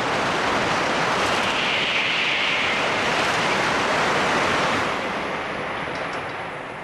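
A Shinkansen train passing through the station at speed: a loud, steady rush of air and wheel noise that holds for about five seconds and then fades away.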